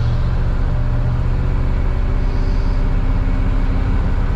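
1956 Ford Thunderbird's V8 engine running steadily while the car is driven, heard from inside the cabin as a low, even hum.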